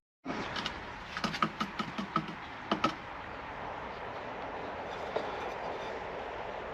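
Wooden pole lathe being set up and worked on a chestnut chair part: a run of irregular wooden knocks, then a steady rough noise.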